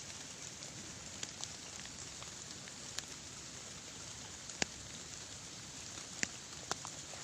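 Steady hiss of light rain falling, with a few sharp drip-like taps scattered through it; the loudest comes a little past the middle.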